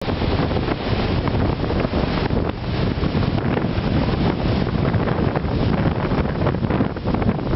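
Strong wind buffeting the microphone: a loud, gusting rumble that rises and falls throughout.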